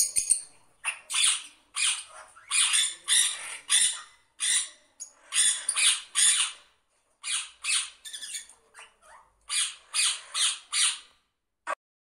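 A bird giving a long series of short, harsh squawking calls in quick clusters, stopping near the end.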